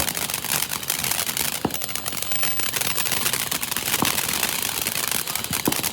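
A ground firework crackling and hissing steadily, with a few sharper pops.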